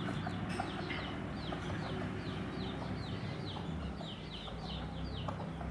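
Chickens, likely chicks, peeping: a steady run of short, high, falling chirps, a few each second, over a low steady hum.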